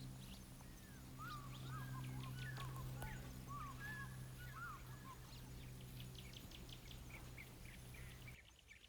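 Wild birds calling and chirping: a cluster of short curved notes in the first half, with quick high chirps throughout. A steady low hum lies under them and cuts off near the end.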